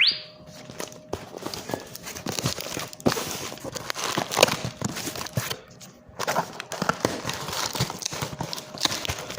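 Packaging being opened and unpacked by hand: a short rising rip at the start, then irregular rustling, scraping and light knocks of box and packing material.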